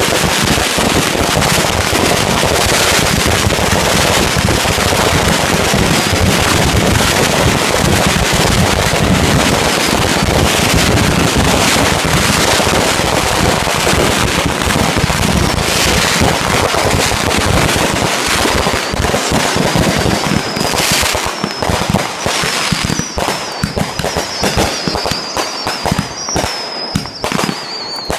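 Consumer fireworks going off in a dense barrage of crackling bangs, which thins out to separate bangs over the last ten seconds. A high wavering whistle runs through the final stretch.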